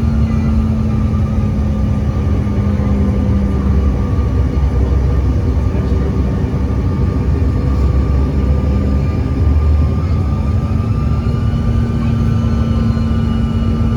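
Engines of an American Eagle regional airliner heard from inside the cabin: a steady, loud rumble with a few held engine tones that rise slightly in pitch about two-thirds of the way through.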